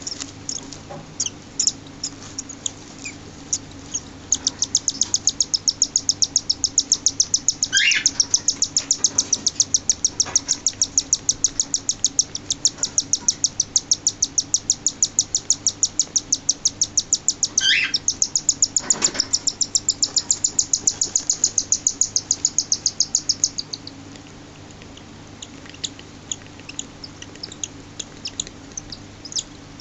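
Six-day-old cockatiel chick begging as it is fed by its parent: a fast, even train of high chirps, about five a second, lasting about twenty seconds, with scattered single chirps before and after. Two brief swooping calls cut across the train.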